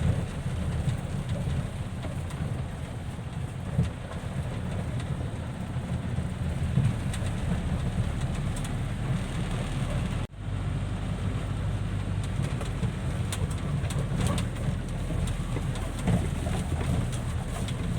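Dump truck's diesel engine idling with a steady low rumble, heard from the cab; the sound breaks off for an instant about ten seconds in.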